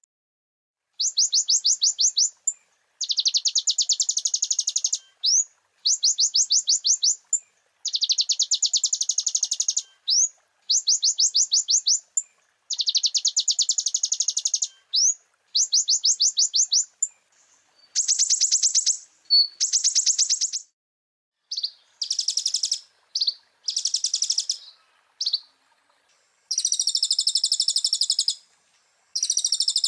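Konin (kolibri ninja) sunbird singing: a series of rapid, high-pitched trills, each lasting one to two seconds with short pauses between them, giving way after about eighteen seconds to different, fuller phrases.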